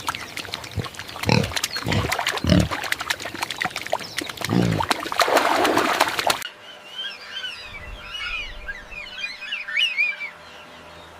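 Pig grunting in short low bursts with many small clicks, then a longer, louder call about five seconds in. After an abrupt cut, a few seconds of high chirping bird calls follow.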